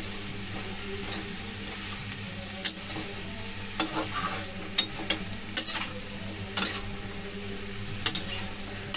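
Spiced brinjal and potato pieces sizzling in oil in a metal pan while being stirred, with sharp clicks and scrapes of the utensil against the pan every second or so.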